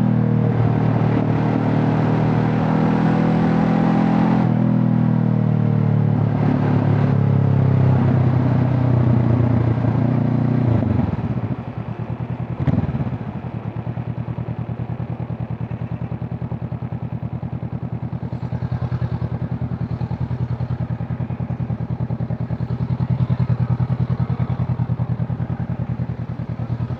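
Honda CB500 Hornet's parallel-twin engine heard through its exhaust while riding, the engine note easing off; about eleven seconds in it drops to a steady, quieter idle, with a brief thump soon after.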